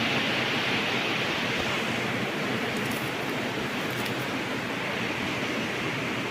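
Steady rushing of air from a Sogo SG-5603 56-inch industrial ceiling fan running.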